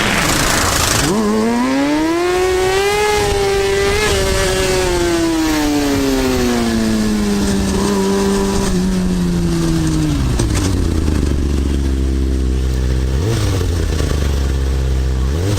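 Motorcycle engine pulling up in pitch, then slowing as the pitch falls steadily over several seconds. It settles to a low, steady idle about ten seconds in, with two short throttle blips near the end. A burst of wind noise at the very start.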